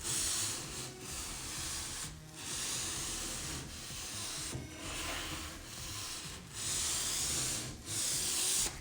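Sandpaper rubbed by hand over a surface in repeated strokes, each about a second long, with short breaks between them.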